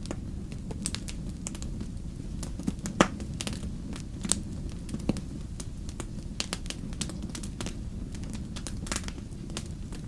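Wood fire burning in a fireplace: a steady low rumble of flames with irregular sharp crackles and pops, the loudest pop about three seconds in.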